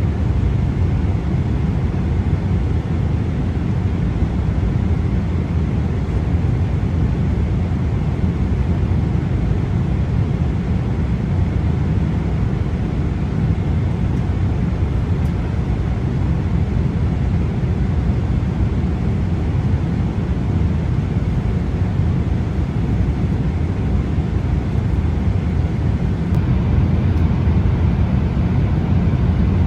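Steady cabin noise of a Boeing 777-300 airliner in flight, heard from an economy seat: a constant, even rush of engine and airflow noise, heaviest in the low end.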